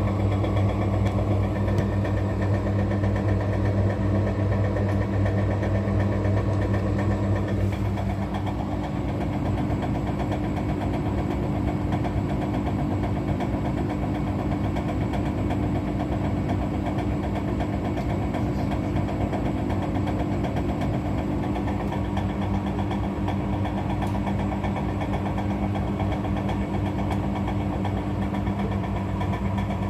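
Washing machine drum turning with a steady motor hum and a fast, even knocking inside the drum, which the owner takes for something bent in the drum. About eight seconds in, the low hum drops and the running note changes.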